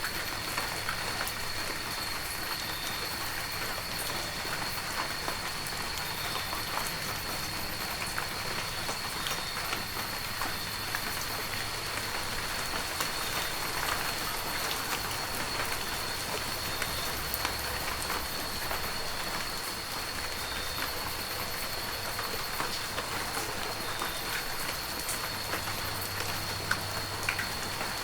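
Heavy rain falling steadily, with many separate drops pattering on surfaces. A thin, steady high tone runs above the rain.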